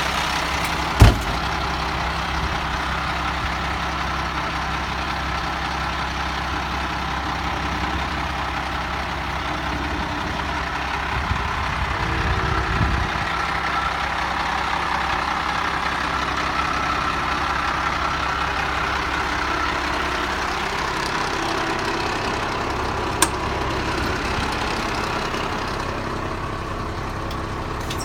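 1995 International 4900 truck's diesel engine idling steadily, with a sharp knock about a second in and a smaller click later on.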